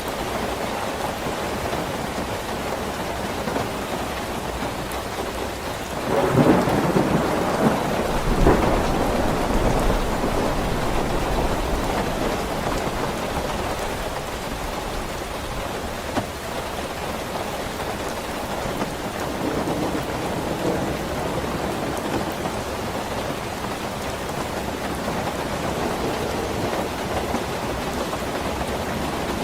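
Steady heavy rain. About six seconds in a thunderclap breaks out: it crackles for a couple of seconds, then rumbles low and fades over several more.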